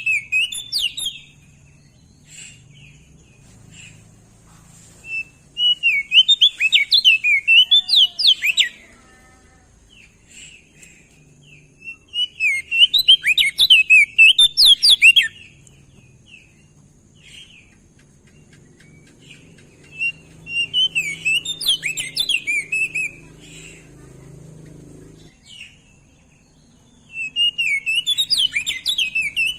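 Crested heleia (opior jambul) singing: rapid, jumbled warbling phrases of high, quickly changing notes, each lasting about three seconds, repeated about every seven seconds with short pauses between.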